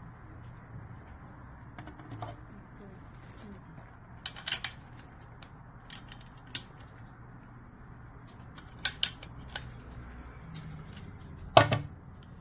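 Sharp clicks and clacks of a tablet stand's parts and a hex-bit tool being handled during a repair, scattered and irregular, with a few clustered together and the loudest knock near the end.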